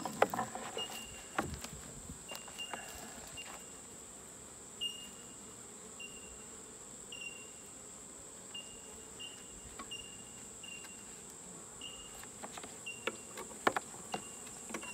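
Honeybees buzzing softly around an open hive, under a steady high insect trill, with short high chirps about once a second. Scattered light knocks and clicks of hive frames being handled, clustered near the start and near the end.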